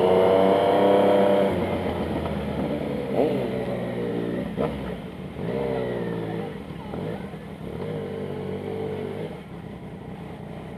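Yamaha MT-09 three-cylinder engine revving, its pitch rising and falling with a few blips of the throttle, with a couple of sharp pops around the middle. It grows steadily quieter through the stretch.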